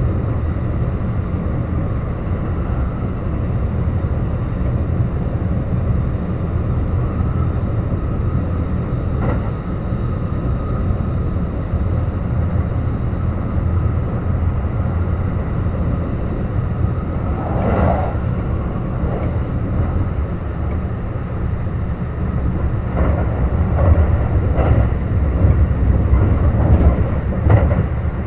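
Kintetsu 21000-series Urban Liner Plus electric train running on the line, heard from inside the car: a steady low rumble of wheels on rail, with a faint whine over the first ten seconds or so, a sharp knock about eighteen seconds in, and rail-joint clacks near the end.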